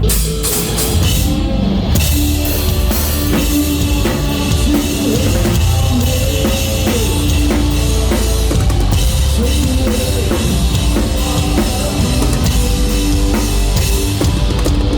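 Live rock band playing loud and steady, with drum kit and bass drum under distorted electric guitar lines.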